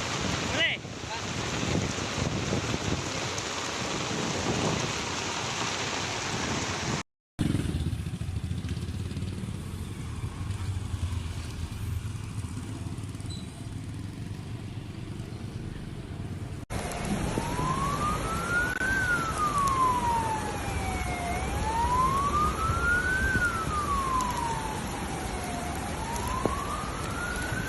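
An emergency vehicle siren wailing, slowly rising and falling about every four seconds, in the last third. Before it, separated by abrupt cuts, come a steady rush of noise and then a low rumbling hum of traffic or running water.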